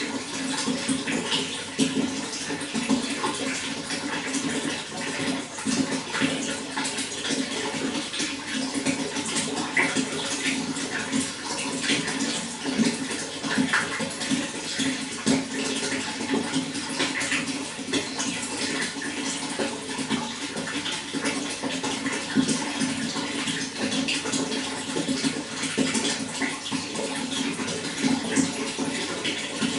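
Running water flowing and splashing steadily and continuously, a dense crackle of small splashes over a fuller low rush.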